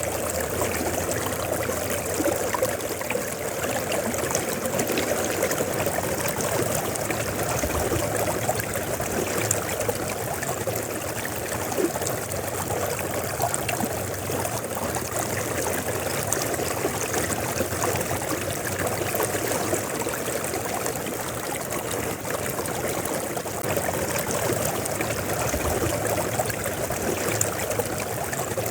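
River water flowing and splashing steadily, a continuous rushing babble with small gurgles and splashes throughout.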